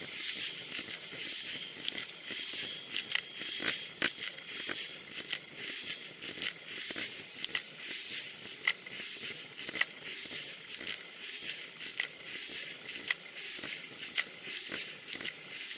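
Bicycle riding on a wet road in rain, heard through a bike-mounted Fly6 camera: a steady high hiss of tyre spray and rain, with many irregular sharp ticks and knocks.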